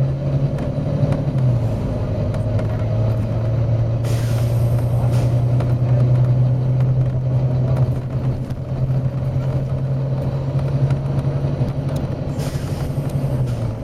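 Volvo B9TL double-decker bus's six-cylinder diesel engine running steadily, with two loud hisses of compressed air being released, one about four seconds in lasting over a second and another near the end.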